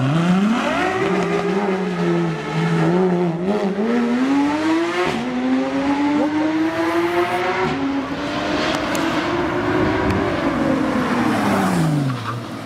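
Ferrari LaFerrari's V12 engine revving hard as the car accelerates, its pitch climbing in long sweeps with sudden drops between them like gear changes. Near the end the pitch slides down as it backs off.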